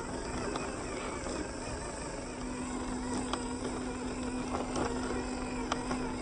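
Off-road RC car driving over rocks: a steady motor whine that grows stronger after about two seconds, over a rough crunching noise with scattered clicks of tyres and chassis on stone.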